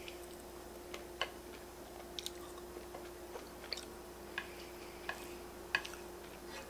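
Close-miked chewing of ramen noodles and bacon, with about a dozen short, sharp clicks scattered irregularly through it, over a faint steady hum.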